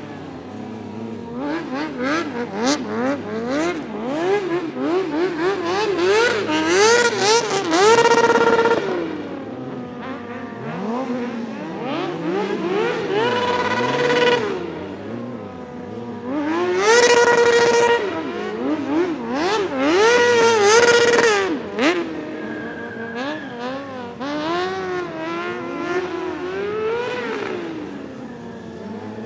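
Motorcycle engines revving over and over, more than one at once, the pitch climbing and dropping. Four times a rev is held high and steady for about a second before falling away.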